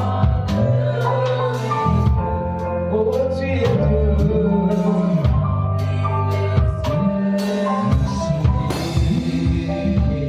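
Live gospel worship band playing: bass guitar, keyboards and a drum kit keeping a steady beat, with singing over it.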